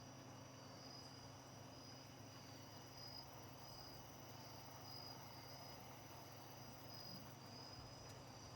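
Crickets chirping faintly: a high chirp pulsing about twice a second over a steadier high insect trill, with a faint low hum underneath.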